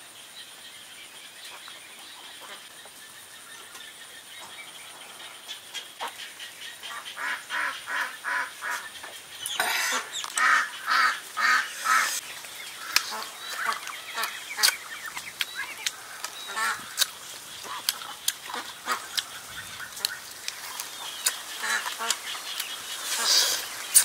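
Farmyard birds calling: a run of short, evenly repeated calls, two or three a second, starting a few seconds in and loudest around the middle, with scattered sharp clicks. A faint steady high whine stops about ten seconds in.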